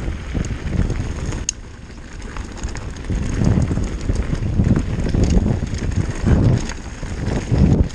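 Downhill mountain bike rolling over rough trail: a loud uneven rumble of tyres and rattling bike, with surging wind noise on the camera microphone and a sharp click about a second and a half in.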